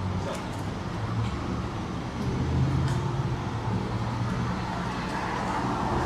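City street traffic, with a motor vehicle's engine running close by and passing, loudest about halfway through.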